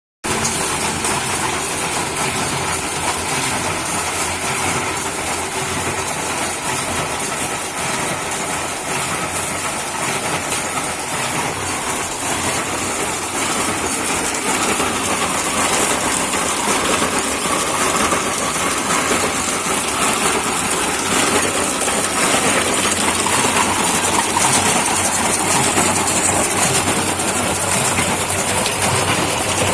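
Homemade concrete mixer running steadily, its motor and turning drum making a continuous mechanical noise that grows a little louder in the second half.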